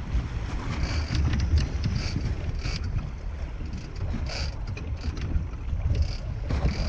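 Boat engine rumbling steadily under way, with wind buffeting the microphone.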